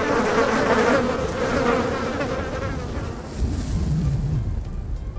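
Dense buzzing drone that fades after about three seconds, giving way to a low rumble.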